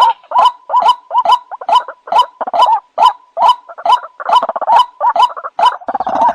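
White-breasted waterhen (ruak-ruak) call played as a hunter's lure: a fast, even run of croaking 'kruwok' notes, a little over two a second.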